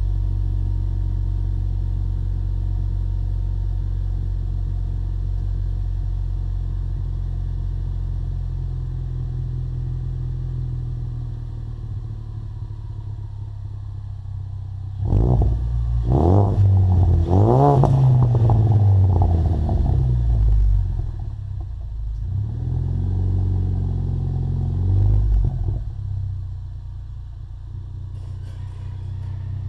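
2015 Ford Mustang EcoBoost's 2.3-litre turbocharged four-cylinder through a Magnaflow Competition exhaust, idling steadily. About halfway it is blipped twice, revved up and back down, then given one shorter rev before settling back to idle.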